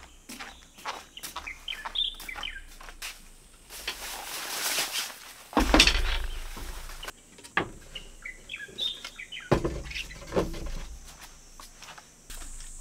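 Birds chirping in short runs of calls, about two seconds in and again around eight to nine seconds, over rustling, with a few dull thumps. The loudest thump comes about five and a half seconds in.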